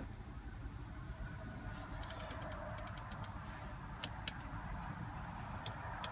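Soft clicks from the Audi SQ5's infotainment control knob being turned and nudged: a quick run of ticks about two seconds in, then a few single clicks, over a low steady hum.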